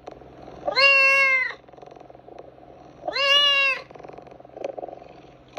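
A domestic cat meowing twice: two long, drawn-out meows about two seconds apart, over a low steady rumble.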